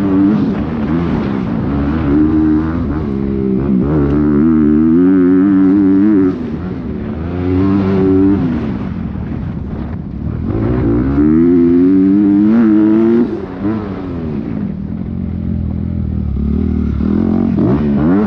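Dirt bike engine under race throttle, its pitch rising and falling as it revs up through the gears. The throttle is chopped about six seconds in and again about thirteen seconds in, and the engine winds back up after each.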